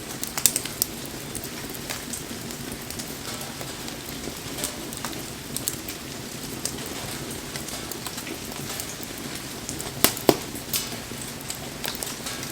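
Steady rain pattering around a crackling wood fire, with a few sharp pops from the burning wood about half a second in and twice close together near the end.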